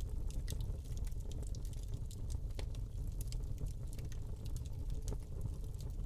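Wood fire burning in a fireplace, crackling: irregular small sharp snaps and pops from the burning log, several a second, over a steady low rumble.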